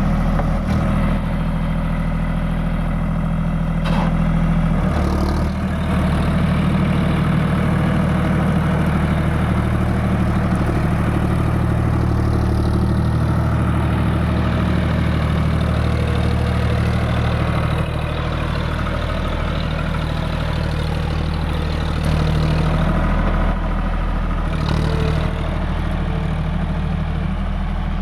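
Diesel tractor engine, a John Deere 5050D, running steadily with a deep, even note. Its pitch and loudness shift slightly a few times.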